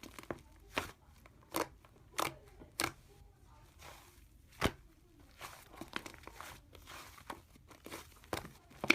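Slime being squished and pressed by hand, giving irregular sharp clicks, pops and short crackles.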